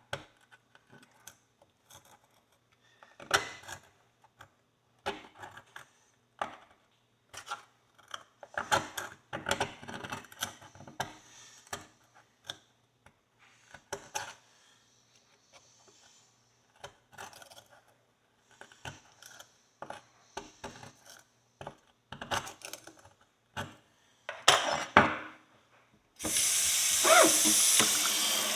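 A metal tool scraping and scratching at dirt packed in the groove and nail holes of an old horseshoe, in short irregular strokes with pauses between them. Near the end a kitchen tap is turned on and water runs steadily.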